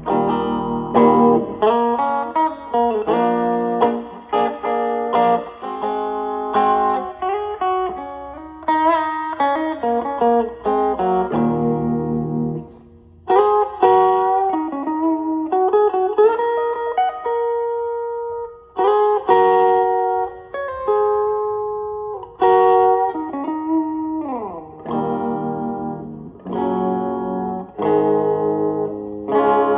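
Electric guitar, a 1986 Kramer Striker 100ST, played through a 1986 Peavey Backstage Plus amplifier and a Behringer Vintage Tube Overdrive pedal: blues lead lines of single notes and bends with overdrive. The playing pauses briefly about thirteen seconds in.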